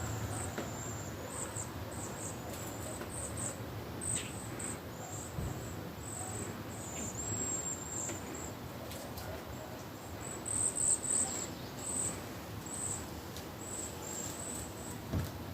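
Faint, high-pitched chirping of outdoor wildlife, short chirps coming and going irregularly.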